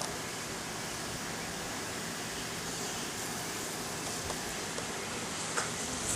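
Honeybees in an open hive buzzing, a steady, even hum, with a faint tick or two near the end.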